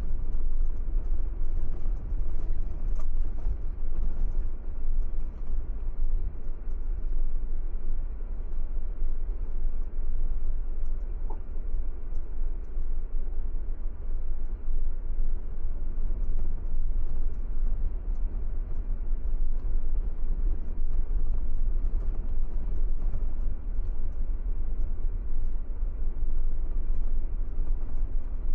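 Steady low rumble of a car driving along: engine and road noise, with no change in pace.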